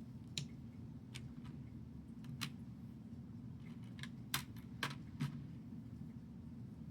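Small plastic building bricks clicking as they are handled and pressed together: about seven sharp, irregular clicks, the loudest about two-thirds of the way through, over a steady low hum.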